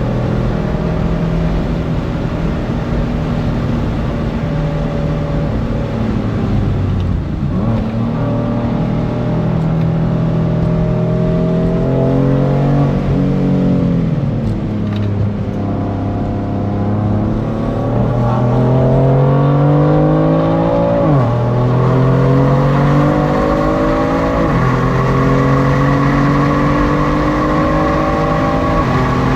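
BMW F82 M4's twin-turbo inline-six engine accelerating hard: its note climbs steadily and drops sharply at each upshift, about 7 s, 21 s and 24 s in. Around the middle the revs fall more slowly as the car slows for a corner.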